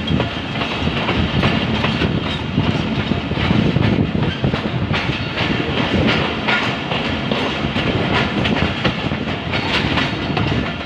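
Passenger train running, its wheels clacking over the rail joints in a steady run of clicks, heard from an open carriage window.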